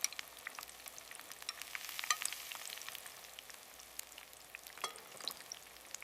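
Soft, irregular crackling and sizzling from an open cooking fire, with many small pops over a faint hiss.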